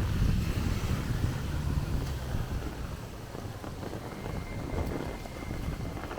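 Gusty wind buffeting the microphone during a heavy downpour, strongest in the first two seconds and then easing, over the steady hiss of rain.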